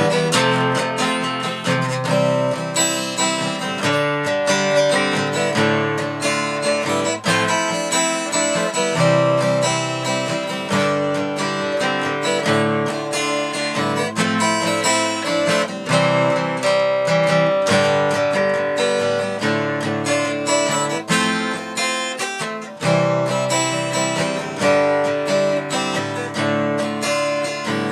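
Instrumental music led by strummed acoustic guitar, with no singing.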